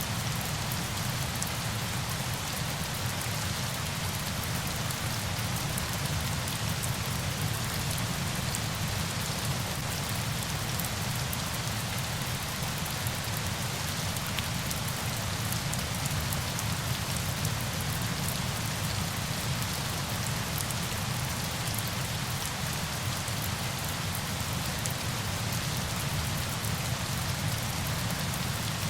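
Steady rain falling on surfaces: a dense, even hiss sprinkled with fine drop ticks over a soft low rumble, unchanging throughout.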